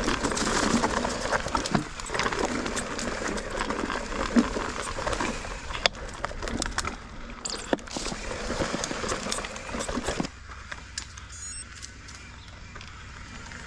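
Mountain bike riding over a rough dirt trail: tyres crunching over rocks and roots with scattered clicks and rattles from the bike. About ten seconds in it drops to a quieter, steady low rumble.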